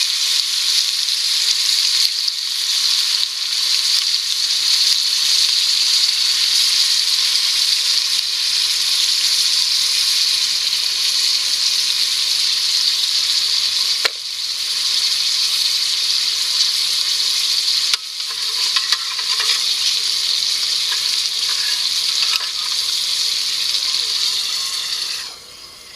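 Food sizzling steadily in a hot pan over the fire, with a couple of faint clicks, cutting off near the end.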